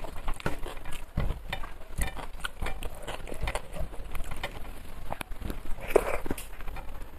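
Close-up eating sounds: chewing and wet mouth noises with many small clicks as rice and curries are eaten by hand, and one louder smack about six seconds in.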